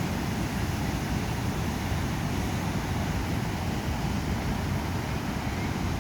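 Steady wash of ocean surf breaking on the beach, with wind buffeting the microphone.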